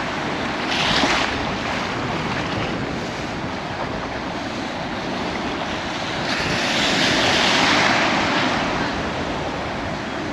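Ocean surf breaking and washing on a beach, with wind buffeting the microphone. The wash swells briefly about a second in, and again for a couple of seconds past the middle.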